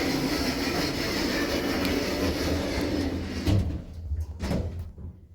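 Thyssenkrupp passenger lift's sliding doors closing with a steady rushing rumble. The rumble stops with a knock about three and a half seconds in, and another knock follows a second later. A low hum is left behind.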